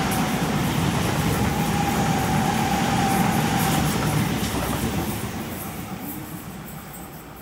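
Sydney Trains double-deck electric suburban train running through a station at speed: dense wheel-and-rail noise with a steady high whine. It fades away after about four seconds as the last carriage goes by.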